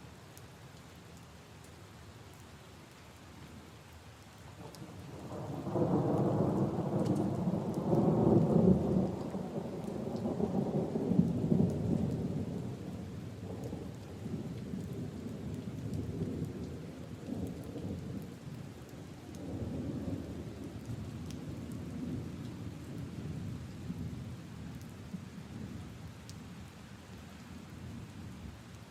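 Steady rain falling on puddles and leaves, with scattered drips; about five seconds in a low roll of thunder swells up, peaks a few seconds later and slowly rumbles away.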